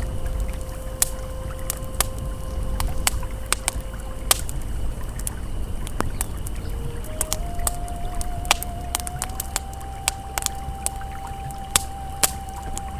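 Campfire crackling with frequent sharp pops over the steady rush of a flowing river. Long held ambient synth tones sound over it: one low note for the first few seconds, then a higher, slightly wavering note from about halfway on.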